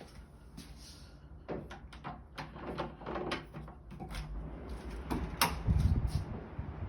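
Irregular knocks and bangs, like doors or cupboards, from a neighbour's home. They come as a string of sharp knocks, the loudest a heavy thud about five and a half seconds in.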